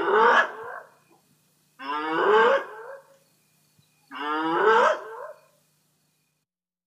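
Hyena calling three times, each call about a second long and rising in pitch, about two seconds apart.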